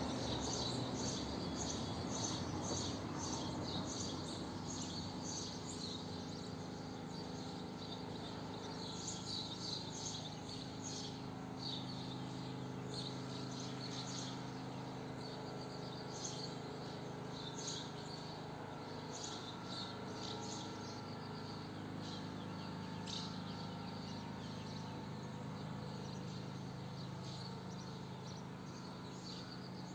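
Swallows twittering, with many quick high chirps coming and going throughout, over a steady low hum.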